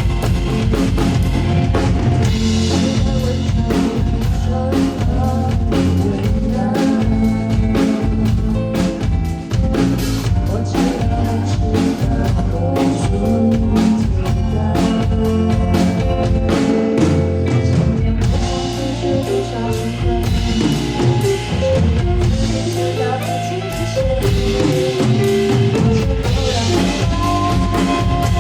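Pop-rock band music: a drum kit keeps a steady beat over bass and guitar.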